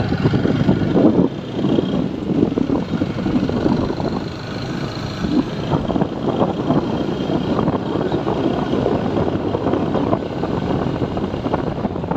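TVS Apache 4V motorcycle under way, engine running beneath heavy wind buffeting on the microphone.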